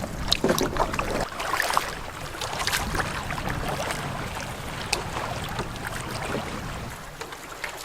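Wind buffeting the microphone over water lapping and splashing against a canoe on a lake, with scattered small splashes and knocks.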